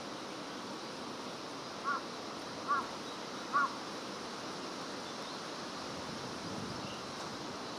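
A bird calls three times, short arched notes a little under a second apart, over a steady outdoor hiss.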